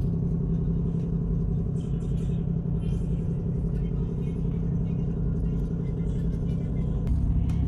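A boat's marine diesel engine running steadily at slow ahead, a low, even drone. About seven seconds in, the engine note changes and grows slightly louder.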